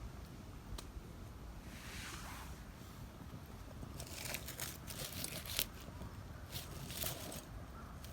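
Rustling, then a dense run of crinkling, crackling clicks from about four seconds in that lasts a few seconds.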